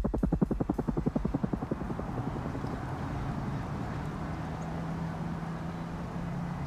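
Helicopter rotor chopping in fast even pulses, about ten a second, fading out over the first two seconds. It leaves a steady low engine-like hum.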